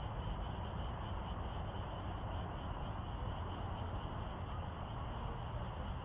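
Steady chorus of insects trilling together, shrill and unbroken, over a low rumble of wind or distant background noise.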